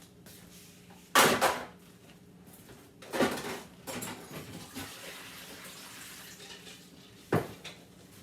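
Kitchenware clattering as it is handled: a loud double clatter about a second in, another clatter a couple of seconds later, and a single sharp knock near the end.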